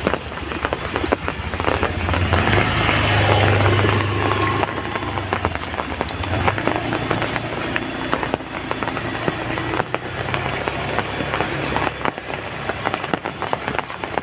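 Heavy rain falling steadily, drops striking hard surfaces as a dense crackle of sharp ticks. A low rumble swells about two seconds in and fades out a few seconds later.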